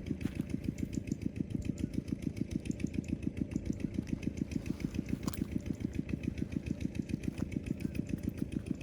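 A small engine idling steadily: an even, fast chugging of about nine or ten beats a second.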